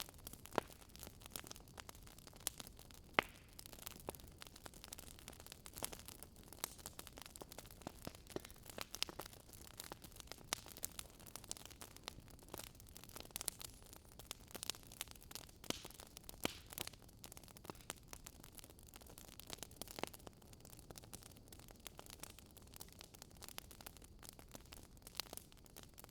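Wood fire crackling: a low steady hiss with irregular sharp pops and snaps of burning logs, a few louder pops standing out.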